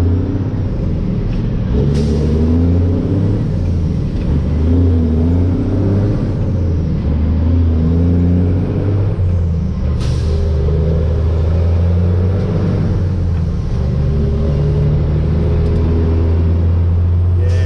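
Loaded dump truck's diesel engine heard from inside the cab while driving, the revs climbing and dropping repeatedly as it works through the gears. Two short, sharp sounds cut in, about two seconds in and again around ten seconds.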